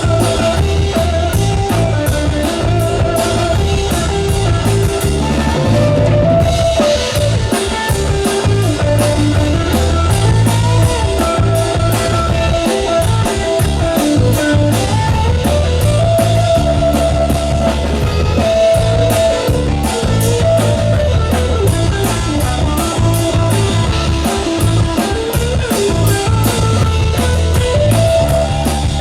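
Rock music without vocals: an instrumental passage with a steady drum-kit beat and electric guitar.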